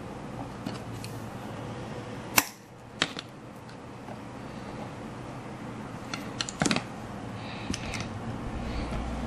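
Scattered sharp clicks and snips of hand tools and materials being worked on a handmade model: a loud click about two and a half seconds in, another at three seconds, and a quick run of clicks around six to seven seconds.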